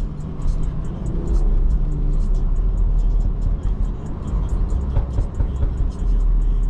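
Steady low road and engine rumble heard inside a BMW G30 540i driving on a wet highway, with crackling hiss from rain and tyre spray on top.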